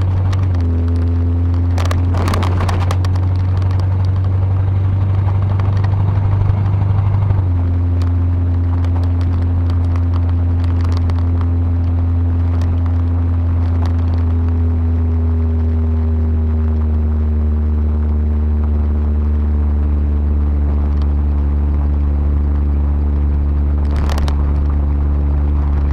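Ford 351 Windsor 5.8-litre V8 of a 1977 Ranchero GT running steadily, its low note changing about seven seconds in, with a few brief clicks about two seconds in and near the end.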